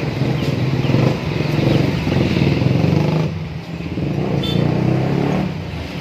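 Motor vehicle engine running close by, louder in two stretches with a dip about three and a half seconds in, then easing off near the end. A short high bird chirp is heard about four and a half seconds in.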